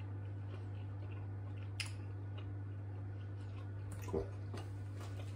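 A man chewing a mouthful of roast beef, with faint wet mouth clicks, a sharper click a little under two seconds in and a brief 'mm' about four seconds in, over a steady low hum.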